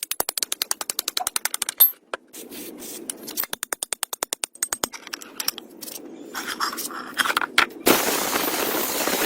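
A power tool rattling in rapid runs of about ten clicks a second, then irregular knocks, then a loud steady hiss starting about eight seconds in.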